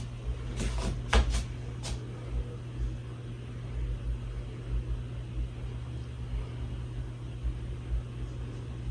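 Hunter Low Profile II ceiling fan running, with a steady motor hum over an uneven low rumble. A few sharp clicks come in the first two seconds.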